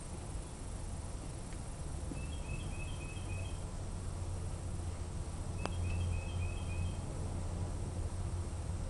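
A songbird singing two short runs of quick, high, paired chirps over a steady low outdoor rumble, with a single sharp click about halfway through.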